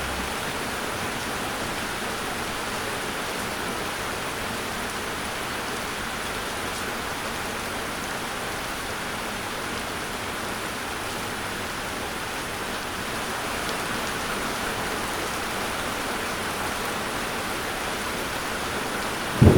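Steady rain falling on a surface, an even hiss with no single drops standing out. Right at the end a clap of thunder breaks in.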